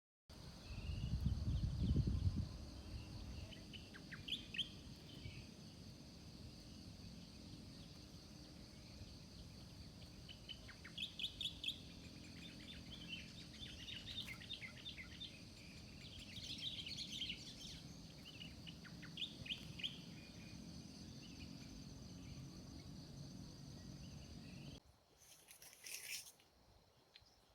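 Outdoor hillside ambience: birds chirping in short scattered bursts over a steady high hum and a low wind rumble. The wind buffets the microphone loudly for the first couple of seconds. The sound cuts abruptly to quieter near the end, with a brief hiss.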